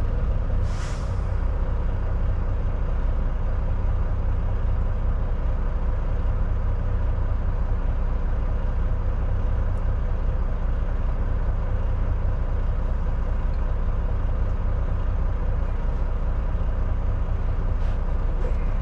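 Semi-truck diesel engine running steadily with a low rumble, and a short hiss of air about a second in, typical of the air brakes.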